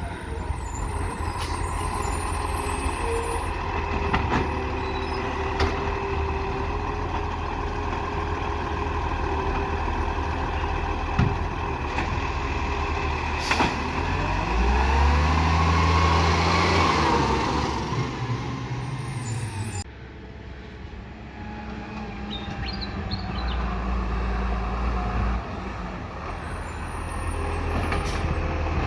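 Garbage truck's diesel engine running, revving up and back down for several seconds midway through, with a few short knocks and air hisses along the way.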